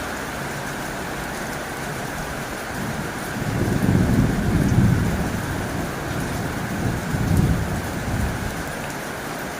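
Heavy rain drumming steadily on a tin roof, with a low rumble of thunder that swells about three seconds in, peaks twice and dies away near the end.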